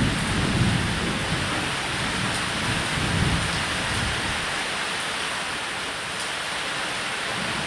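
Steady heavy rain on a roof, with low rolling thunder rumbling underneath. The rumble swells near the start and again about three seconds in.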